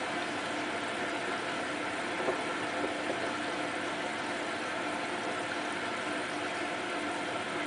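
Hotpoint Ultima WT960 washing machine running with a steady motor hum over water noise, with a few faint knocks a couple of seconds in.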